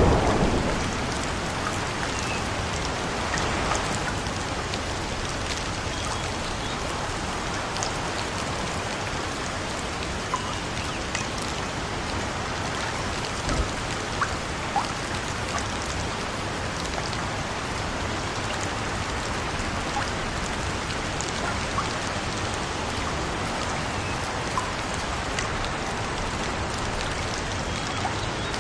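Steady rain-like hiss with scattered crackles and pops of a wood fire. A low rumble fades out in the first second.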